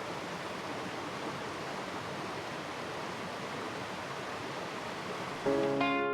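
Mountain valley stream running, a steady, even rush of water. Music with guitar comes in near the end.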